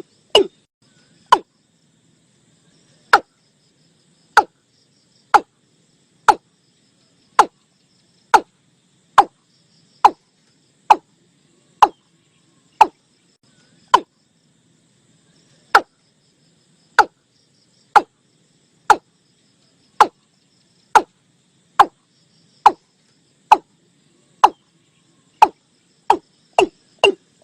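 Watercock calling: a long series of short, sharp notes, about one a second, that quickens to about three a second near the end.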